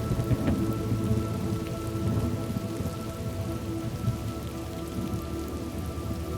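Steady rain falling, with a low rumble of thunder that gradually fades over the first few seconds. A faint steady drone of background music sits underneath.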